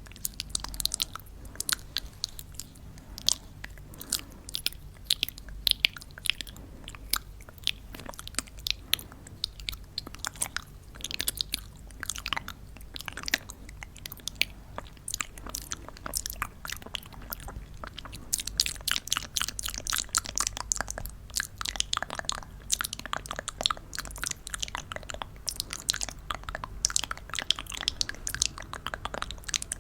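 Piñata paper and candies crackling, crunching and clicking in a dense, irregular stream of sharp little clicks, busiest a little past the middle.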